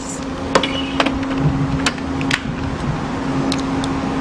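A machine running with a steady hum, with several sharp clicks or knocks at uneven intervals.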